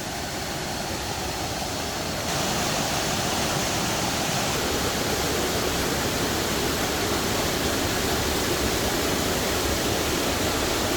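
Waterfall rushing in a heavy flow after much rain: a dense, steady roar of falling water that gets louder about two seconds in.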